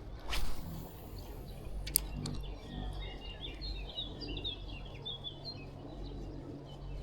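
A small bird singing a run of quick high chirps over a steady low outdoor background, with a brief louder rush of noise just after the start.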